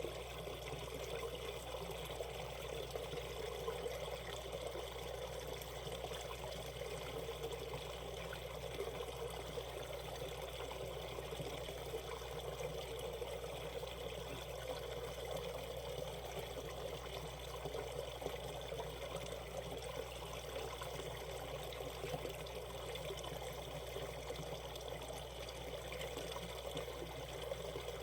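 Mountain stream water flowing and splashing over rocks, a steady rushing and trickling.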